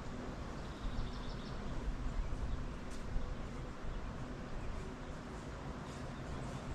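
Strong wind buffeting the microphone: a steady low rumble with hiss. A few faint high chirps sound about a second in.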